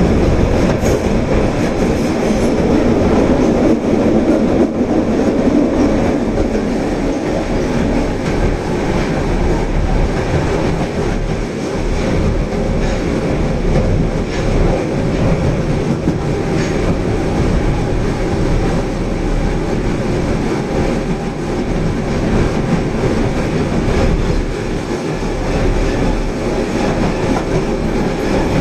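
Osaka Metro Tanimachi Line subway train running between stations, heard from inside the car: a steady, loud running noise of wheels on rail and traction motors, a little louder in the first few seconds.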